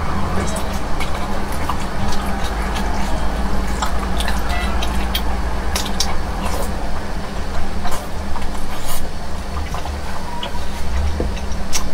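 Close-miked wet, sticky chewing and lip-smacking of sauce-covered beef tendon, with many sharp mouth clicks over a steady low hum.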